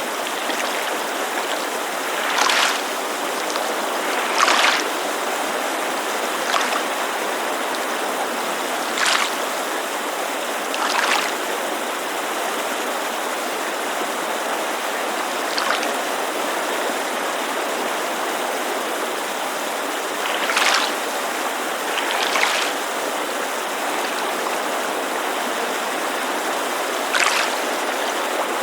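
Small waves lapping against a lakeshore in short splashes every few seconds, at uneven gaps, over the steady rushing hiss of a creek.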